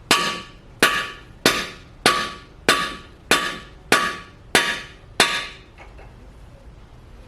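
Hammer blows on a cam bearing driver bar, driving the front cam bearing deeper into a Ford 292 Y-block's cam bore: nine evenly spaced strikes about 0.6 s apart, each with a short metallic ring. The bearing is being driven until it sits at least flush, so the cam retainer plate will fit.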